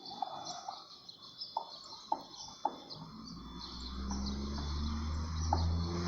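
Small songbirds at a feeding spot chirping: many quick high twitters and short sharp call notes. From about halfway a low hum builds up underneath and grows louder.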